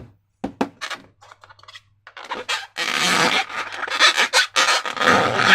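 Slime and rubber balloons being handled and squished by hand: a few sharp sticky clicks, then from about two seconds in a dense, crackly rubbing and squelching.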